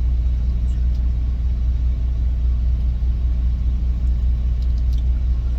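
Steady low rumble of an idling engine, heard from inside a semi truck's sleeper cab, with a few faint ticks near the end.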